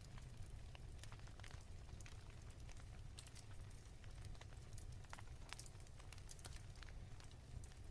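Quiet wood fire crackling, with many small irregular pops and snaps over a soft, steady low rumble.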